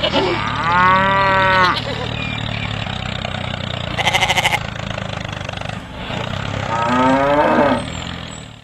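A cow mooing twice, each call about a second long, the second one rising in pitch, over a steady low hum. A short buzzing sound comes about four seconds in.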